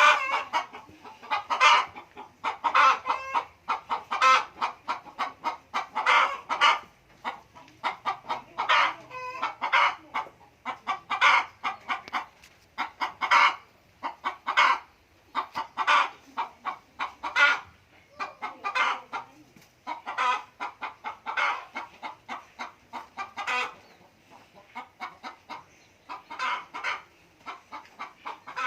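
Chickens clucking, many short sharp calls coming in quick clusters.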